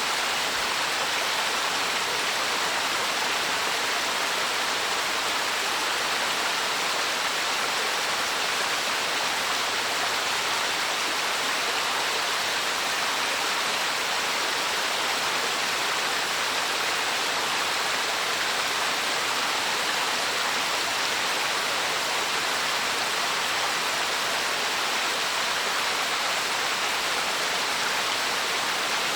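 Small waterfall and cascading mountain stream, water rushing and splashing over rocks in a steady, even rush.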